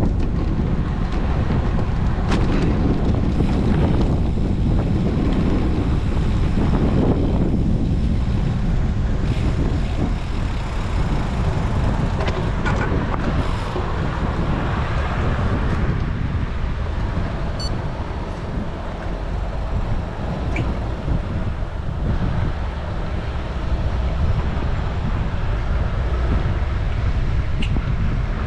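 Wind rushing over a GoPro action camera's microphone on a moving road bike, a steady low rumble that swells now and then, mixed with road traffic noise.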